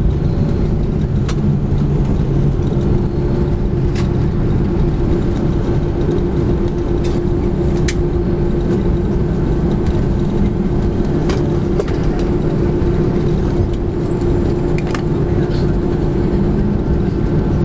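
Cabin noise of a Boeing 737-300 on the ground after landing: a steady drone and hum from its CFM56 jet engines, with a few faint clicks and rattles from the cabin.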